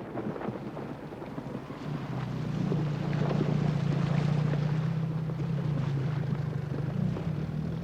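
Outboard motor of a Zodiac inflatable boat running steadily, with wind noise; the motor's steady hum grows louder about two seconds in.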